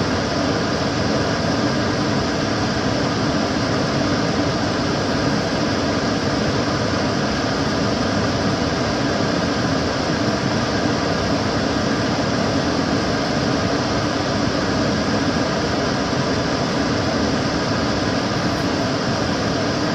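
Kitchen cooker hood extractor fan running steadily, a constant whooshing rush of air with a low hum underneath.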